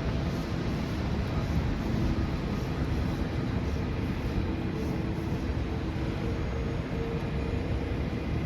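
Steady low rumble of city vehicle noise, with faint steady hum tones running through it.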